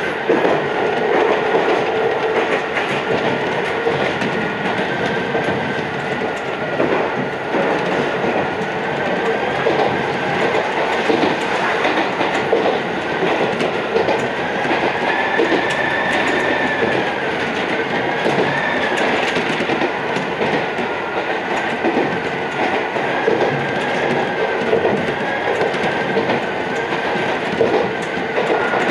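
Iyotetsu 3000 series electric train running along the line, heard from on board. A steady running noise carries light clicks from the rail joints, and a wavering whine rises and falls around the middle.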